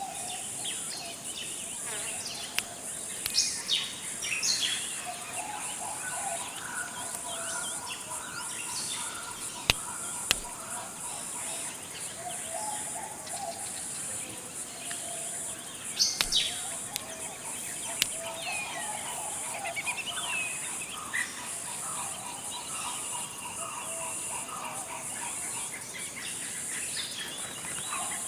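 Forest ambience: a steady, high-pitched insect drone under many birds calling and chirping on and off, with a few sharp clicks.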